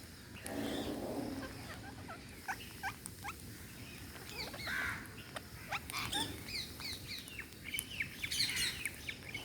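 Parrots chirping: a rapid run of many short, sweeping calls that grows busier toward the end.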